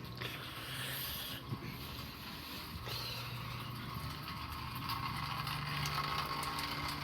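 Steady mechanical hum of a motor: a low drone with a higher whine above it, growing a little louder about five seconds in.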